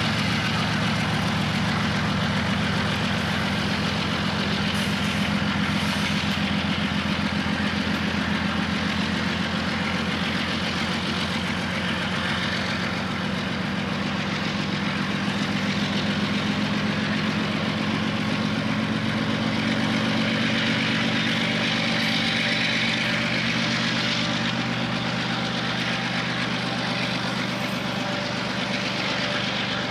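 Large diesel engine running steadily at an even pitch, a continuous low drone.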